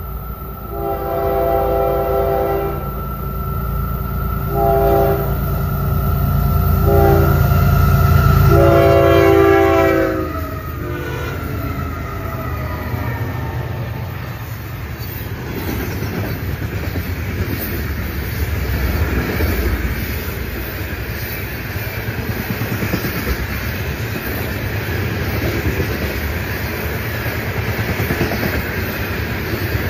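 Florida East Coast Railway freight train at a grade crossing. The lead diesel locomotive sounds its horn in four blasts over the first ten seconds (long, long, short, long, the crossing signal), with the locomotives' engines running loud underneath. From about twelve seconds in, the freight cars roll past with a steady rumble of wheels on rail.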